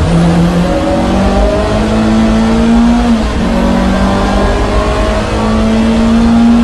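Lancia Delta HF Integrale's turbocharged four-cylinder race engine, heard from inside the cabin, pulling hard as the car accelerates out of a corner on a wet track. The pitch climbs, drops sharply on an upshift about three seconds in, then climbs again.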